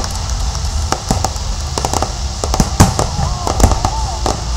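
Fireworks going off in a display: a rapid, irregular run of bangs and crackles, with a few louder booms over a low rumble.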